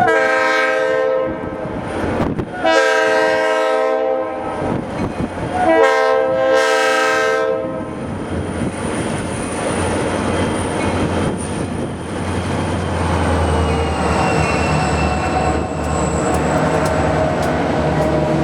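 Leslie RS3L three-chime air horn on a diesel freight locomotive, sounded in three long blasts for a grade crossing. After the horn, the locomotive's engine rumbles past and the train's wheels clatter over the rails.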